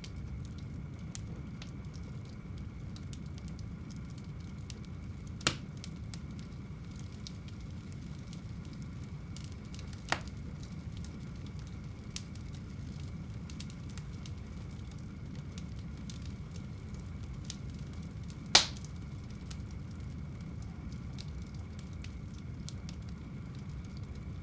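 Wood fire burning in a home fireplace: a steady low rumble of flames with fine crackling, and three sharp pops of the logs, about five seconds in, about ten seconds in, and the loudest near the end.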